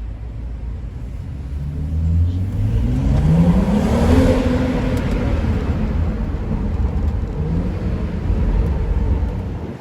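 BMW 335i's turbocharged inline-six, fitted with an aftermarket downpipe, accelerating hard under load: the engine note climbs steadily for a couple of seconds, holds, then climbs again briefly before easing off near the end.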